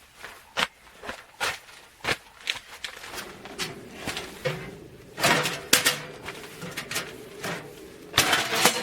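Footsteps crunching in snow at a walking pace, about one and a half steps a second. From about three seconds in a steady hum joins, and a few louder crunches come near the middle and again near the end.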